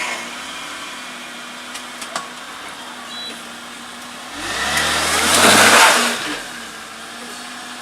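Car engine idling, then revved hard once about halfway through for roughly two seconds while the wheels spin in deep mud, with a rushing hiss of tyres and mud over the rising engine note, before dropping back to idle.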